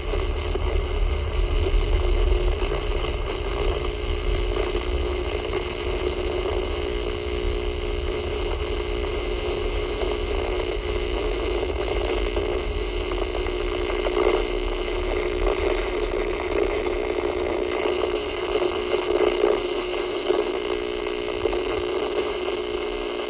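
Power line interference noise from a radio receiver's speaker, running steady: the noise of arcing where a broken, slack guy wire rests against a street light post. Under it is the low rumble of the moving car.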